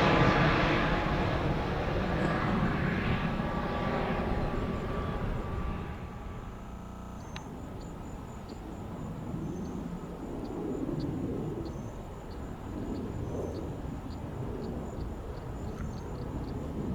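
Airliner engine noise, loud at first and fading away over about six seconds as the aircraft moves off. After that a quieter, uneven low rumble remains, with faint ticking.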